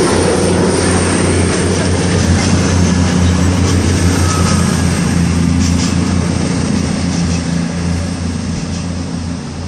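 CrossCountry Class 220 Voyager diesel-electric multiple unit pulling out, its underfloor diesel engines running with a steady low hum under rolling noise. The sound fades over the last few seconds as the train moves away.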